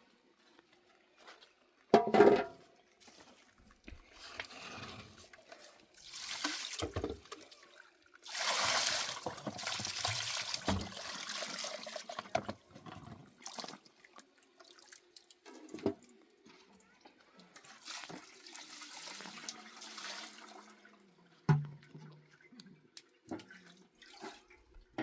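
Water pouring and splashing in several spells, the longest about four seconds, with a sharp knock near the start and another a few seconds before the end.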